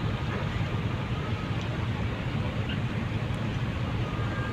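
Steady low rumble with an even noisy wash from a large passenger ship's engines and machinery, with no single event standing out.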